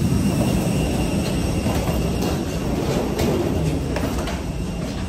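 Airport people-mover train running: a steady rumble with a few rattles and clicks about halfway through.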